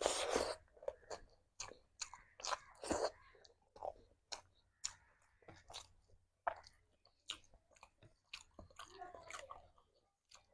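Close-up chewing of food, with frequent wet mouth smacks and clicks, the loudest in the first half second.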